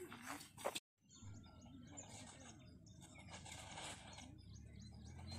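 Faint outdoor ambience with birds chirping repeatedly, over a low steady background hum. The sound drops out completely for a moment just under a second in.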